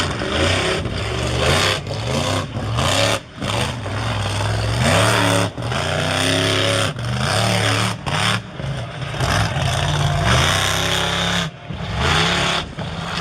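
Monster truck engine revving hard, its pitch climbing and falling again and again as the throttle is worked, with several brief sharp drops in loudness.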